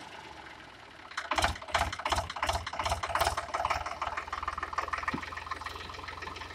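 Indo Farm 3035 DI tractor's diesel engine running. About a second in comes a run of uneven knocks and rattles lasting about two seconds, then the engine settles into a steady low running.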